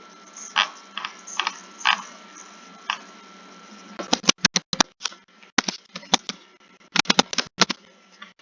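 Typing on a computer keyboard: a few slow, separate keystrokes, then after a short pause quicker runs of keystrokes in bursts.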